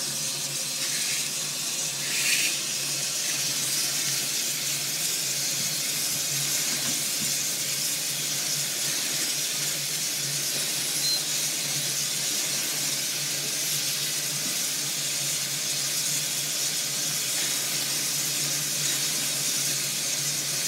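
Steady hiss of steam escaping from a Russell traction engine as its boiler is brought up to pressure, with a brief louder swell about two seconds in.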